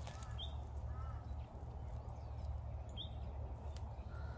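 A bird calling faintly in short, high single notes about every two and a half seconds, with a few lower chirps near the start, over a steady low background rumble.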